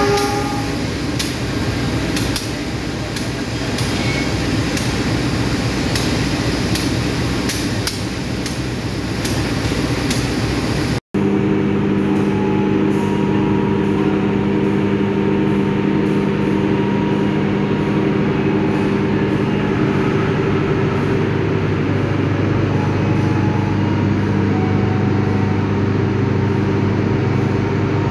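A train running past across the station yard: a steady rumble with many sharp clicks of wheels over rail joints. Partway through it gives way to the steady drone of a diesel passenger train standing at the platform.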